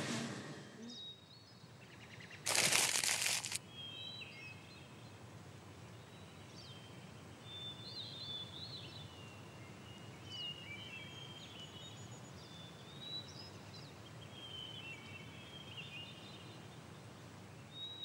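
Birds chirping with many short, high calls over a faint steady background hiss. About two and a half seconds in, a loud rush of noise lasts about a second.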